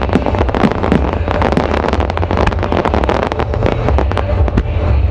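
Aerial fireworks shells bursting in quick succession: a dense run of sharp bangs, several a second, over a steady low rumble.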